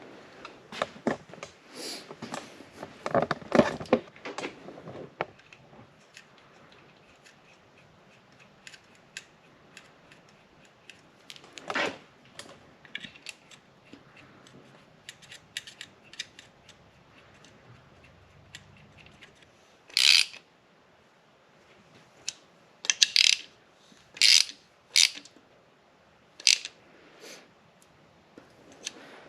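Hand ratchet clicking in short runs and small metal parts clinking as 10 mm bolts are run into the lifter trays of a 6.0 LS engine, done by feel rather than to a torque spec. Clicks are busiest in the first few seconds, sparse in the middle, and several sharp, loud clacks come about two-thirds of the way in.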